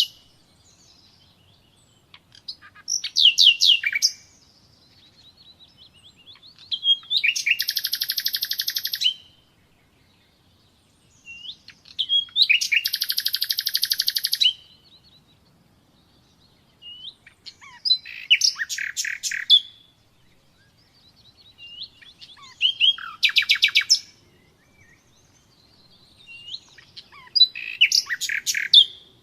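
Common nightingale singing: six separate song phrases of rapid repeated notes and fast trills, each one to three seconds long, with short pauses between them.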